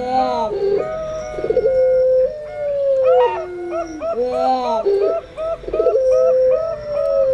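Doves cooing together: a zebra dove (perkutut) gives quick repeated short coos while a Barbary dove (puter pelung) draws out a long coo that falls slowly in pitch, several times over. A few faint high-pitched bird notes sit above them.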